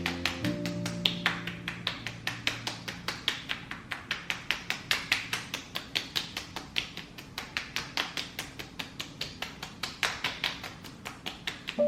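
Fingertips tapping on the skin of the face in a rapid, even rhythm of about five soft taps a second. A gentle music tune plays under the first couple of seconds and comes back right at the end.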